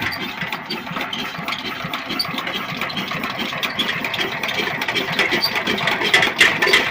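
Old diesel engine running with a fast, steady knocking beat, growing a little louder toward the end.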